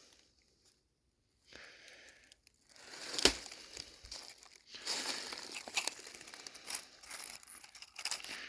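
Near silence for about a second, then close, irregular rustling and crinkling, with a sharp knock about three seconds in.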